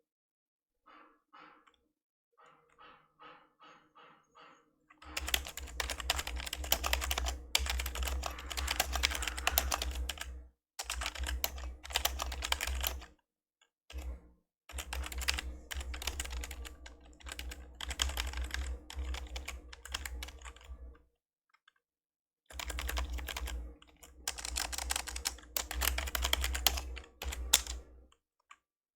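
Old membrane computer keyboard being typed on: a few light, separate keystrokes at first, then fast runs of typing from about five seconds in, broken by brief pauses.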